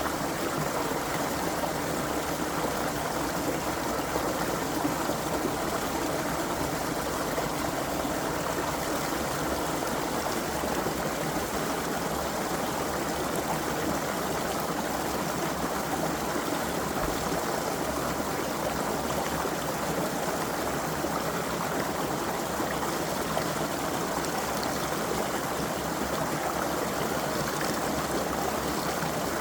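Creek water running over stones: a steady rushing and babbling flow that doesn't change.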